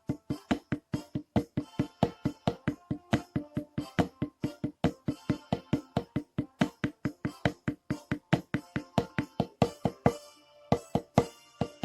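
Snare drum struck in a steady driving rhythm, about four strokes a second, over a rock backing track, with a short break about ten and a half seconds in.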